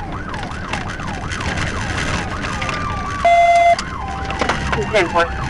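Police car siren on a fast yelp, sweeping up and down about three times a second over steady road and engine noise. About three seconds in, a brief loud steady horn-like tone cuts over it. Near the end the siren breaks into a quicker warble.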